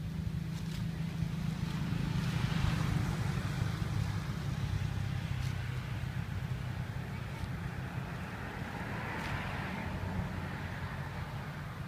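A steady low engine hum with a rushing noise that swells twice, like motor vehicles passing.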